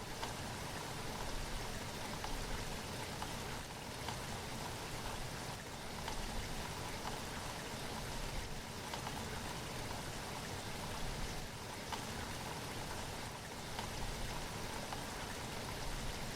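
Steady rain falling, an even hiss of rainfall with scattered drops pattering on surfaces.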